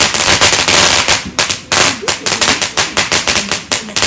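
Fireworks going off in a rapid, dense barrage of cracks and bangs, with a short dip a little over a second in.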